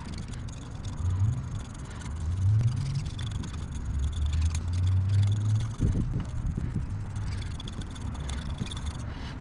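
A motor vehicle's engine running, rising in pitch twice and then holding a steady drone that stops about six seconds in, over light scraping of old RTV sealant from an aluminum oil pan.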